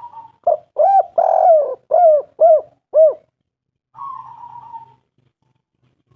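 Spotted dove (tekukur) calling: a soft rolling purr, then a run of six loud arched coos, the third held longest, followed by another soft purr about four seconds in.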